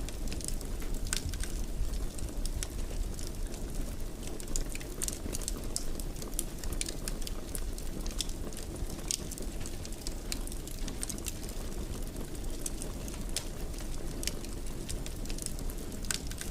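Fire burning in a fireplace: a steady low rumble with frequent, irregular small crackles and pops.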